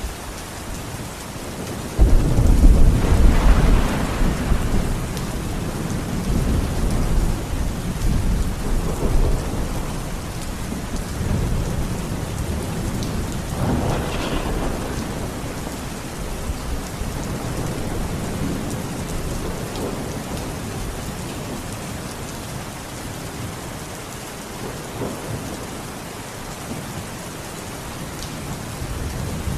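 Steady rain with rolling thunder. A sudden thunderclap comes about two seconds in and rumbles on for several seconds. More thunder rolls through around the middle, with a brief crackle, before it eases back to rain.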